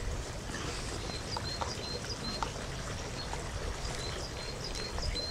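A small bird chirping over and over, short high chirps about two a second, over a steady low rumble.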